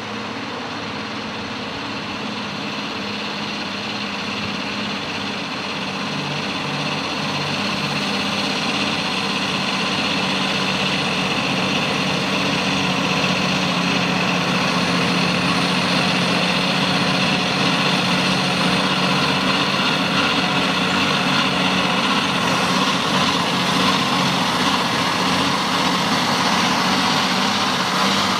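Truck engine running steadily, growing louder over the first several seconds and then holding level.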